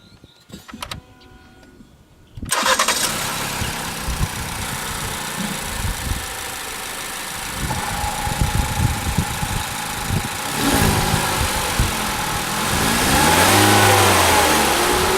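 Ford EcoSport's 2.0-litre naturally aspirated inline four-cylinder starting suddenly about two and a half seconds in and idling, then revved up and down several times in the last few seconds.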